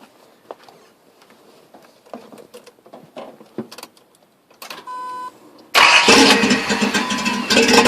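A few faint clicks, a short beep about five seconds in, then the Datsun 280Z's stock 2.8-litre straight-six starts suddenly and runs loudly through a Flowmaster Super 44 single-in, dual-out side exhaust.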